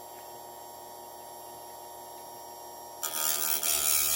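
Electric chainsaw-chain grinder humming, then about three seconds in its wheel bites into the chain with a loud, sustained grinding hiss, taking down a depth gauge (raker) so the cutters can bite into the wood.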